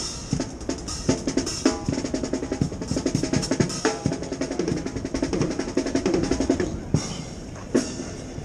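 Drums playing: fast, dense snare-drum strokes with bass-drum beats, easing off briefly near the end.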